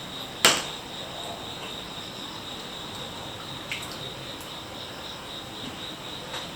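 Steady high-pitched insect chirring, cricket-like, with a sharp loud click about half a second in and a lighter click a few seconds later.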